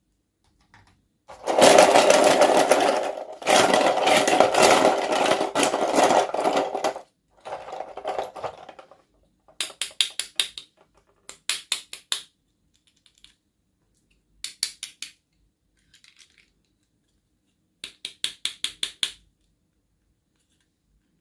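Plastic toy packaging being handled and opened: a long, loud run of rapid clicking and rattling, then several short bursts of quick clicks.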